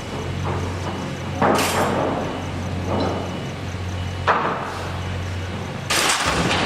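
Construction work: three sudden loud bangs, about a second and a half, four, and six seconds in, over a steady low machine hum.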